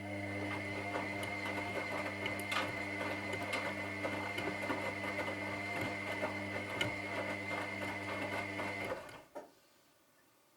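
Washing machine drum motor running with a steady hum, a high whine and light rattling clicks as the drum turns. It cuts off suddenly about nine seconds in, with a single click just after, as in the turn-and-pause of a wash cycle.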